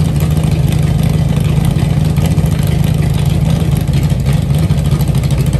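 Freshly built 360 cubic-inch stroker V8 running steadily on its first start-up, its valves still to be adjusted to take out lash.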